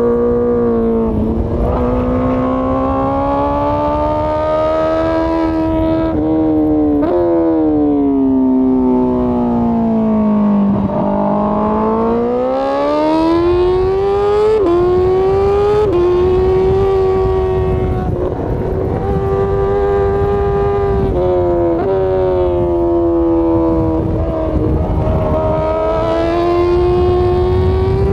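Honda CBR1000RR-R Fireblade's inline-four engine under way. Its note rises and falls with the throttle: a long drop in revs in the middle, then a climb. Several quick jumps in pitch mark gear changes.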